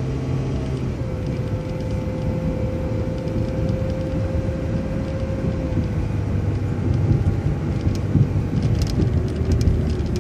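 City transit bus driving, heard from inside: steady engine and road rumble, with a steady whine from about a second in that fades out around the middle.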